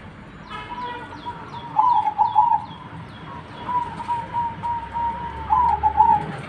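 Zebra dove (perkutut) cooing: a drawn-out mellow call with two rolling, warbled phrases, the louder one about two seconds in and another near the end. A quick series of short, high, falling chirps runs over the first half.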